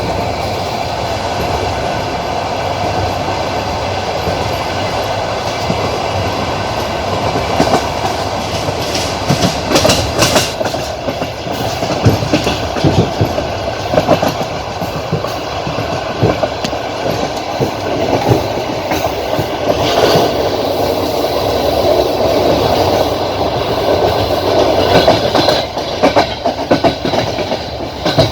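Passenger train carriage running at speed, its wheels clattering over the rail joints with a steady rumble underneath. From about a third of the way in, irregular sharp knocks come in clusters.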